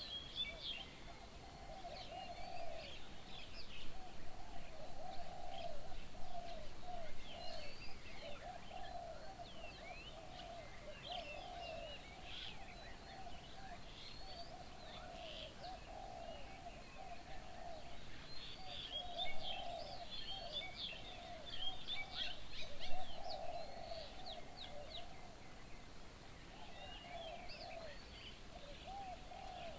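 Several birds calling at once: many short high chirps and slurred whistles over a steady lower warbling that rises and falls every second or two. A couple of louder calls come near the two-thirds mark.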